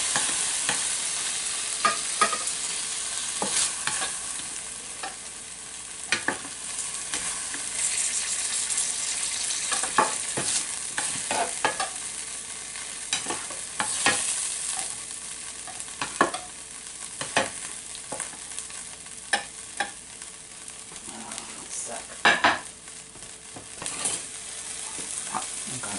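Cut-up filet mignon sizzling in hot olive oil in a frying pan, a steady hiss broken by frequent sharp clicks and scrapes of a utensil stirring and turning the pieces against the pan.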